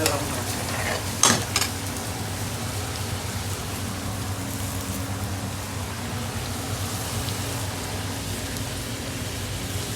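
Steady hiss and hum of a busy commercial kitchen, with a brief clatter about a second in.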